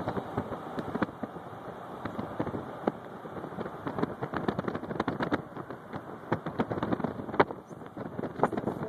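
Car driving along a road, its steady road and cabin noise mixed with dense, irregular crackling clicks and pops, one sharp pop standing out near the end.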